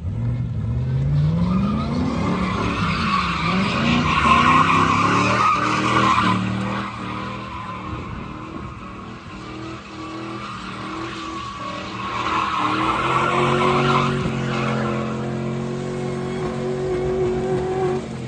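A vehicle doing a burnout: the engine revs up and down and is then held high while the spinning tires squeal. The squeal is loudest about four seconds in and again about thirteen seconds in.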